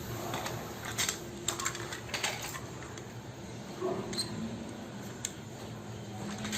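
Scattered light clicks and clatter of toy vehicles being handled, a few irregular taps over several seconds.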